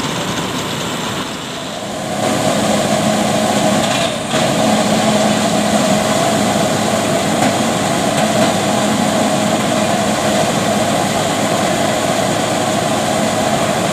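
A heavy truck engine running loud and steady. It picks up about two seconds in and then holds an even drone.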